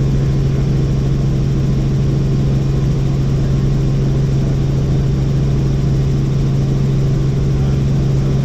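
Helicopter in steady cruise flight, heard from inside the cabin: an unchanging low drone of rotor and engine with a constant hum beneath it.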